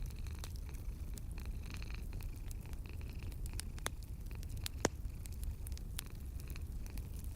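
Wood fire crackling with scattered small pops and one sharper pop about five seconds in, over a steady low purr of a cat.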